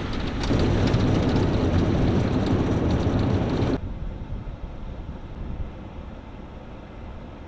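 Box truck driving, its engine and road noise filling the cab. About four seconds in the sound cuts abruptly to a quieter, duller steady rumble.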